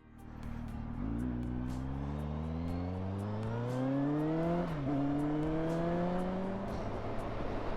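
Kawasaki motorcycle engine accelerating hard, its note rising steadily through one gear, dropping sharply at a gear change about halfway through, then climbing again before fading into a rushing wind noise.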